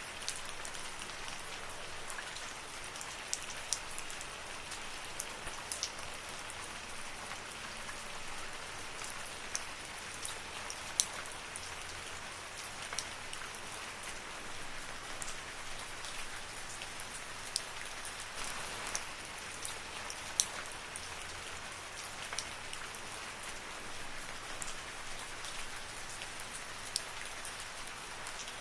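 Steady rain falling in a forest, an even hiss with many sharp individual drops striking close by.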